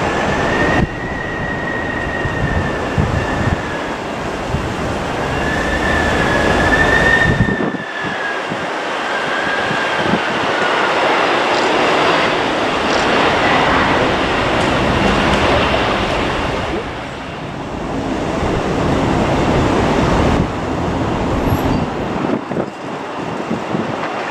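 Jet airliner engines running on landing approach, a loud steady rumble with a high whine that wavers up and down in pitch during the first several seconds.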